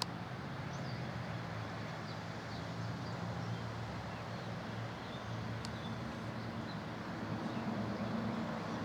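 Backyard ambience: a steady low mechanical hum with a faint bed of noise, and a few faint, short, high bird chirps over it.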